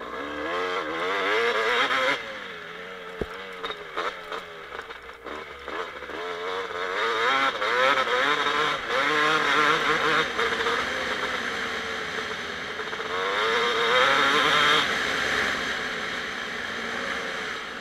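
2007 Kawasaki KX250 single-cylinder two-stroke engine revving up and down as it is ridden, with hard pulls near the start, in the middle and about three-quarters through. A few sharp knocks come about three to five seconds in.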